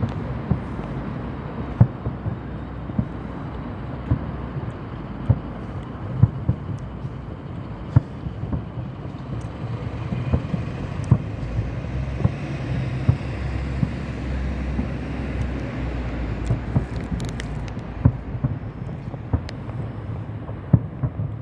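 Steady low rumble of road traffic with sharp pops scattered through it at irregular intervals, a second or two apart.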